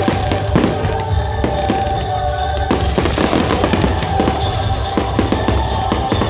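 Fireworks bursting and crackling in quick, overlapping succession, with music playing under them.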